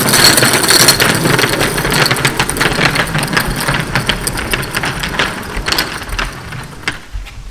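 Pressure washer running loudly while spraying down the flood-muddied pool surround; the noise drops away sharply about seven seconds in.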